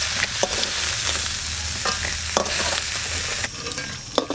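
Fried crab pieces sizzling in hot mustard oil in a metal kadai while a spatula scoops them out, with a few sharp knocks of the spatula and shells against the pan. The sizzle eases off about three and a half seconds in.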